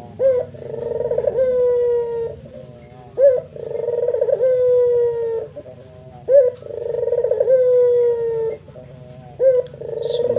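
Local puter (ringed turtle dove) cooing. Each call is a short rising note followed by a long, slightly falling coo, repeated about every three seconds. The voice is big and echoing.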